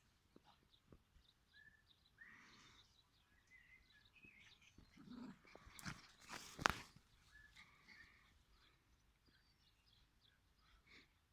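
Faint, scattered sounds of a dog working at a rubber treat ball: small clicks and scrapes, with one sharper knock about two-thirds of the way through.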